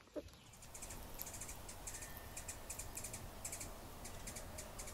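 One short hen cluck right at the start, then faint, quick, high-pitched bird chirps, a few each second.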